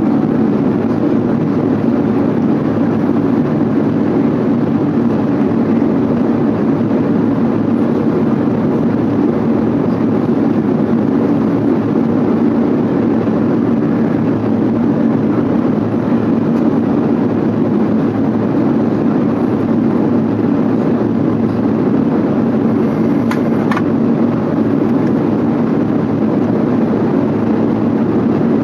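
Steady cabin roar of an Airbus A380 climbing out, the low rumble of its jet engines and airflow heard from a passenger seat, even throughout with one faint tick near the end.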